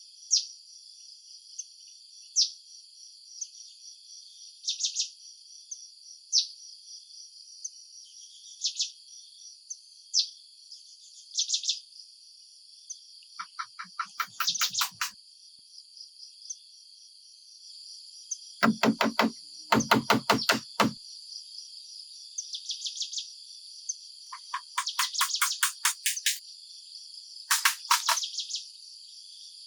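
A steady chorus of insects chirring high up, over which animal calls come and go: short sharp chirps and several rapid pulsed trills, the loudest a pair of trills about two-thirds of the way through.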